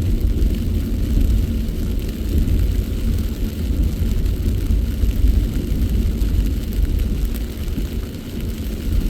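Steady low rumble of a car driving, heard inside its cabin: tyre and engine noise.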